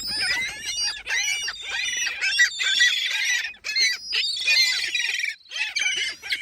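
A flock of gulls calling and squawking, many harsh cries overlapping.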